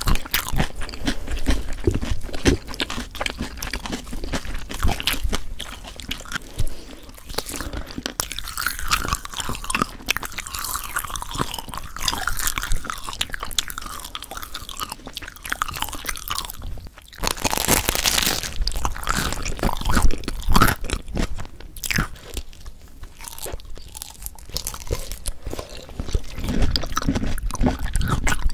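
Close-miked ASMR trigger sounds: dense crunching and crackling clicks, with a brief hissing rush about two thirds of the way through.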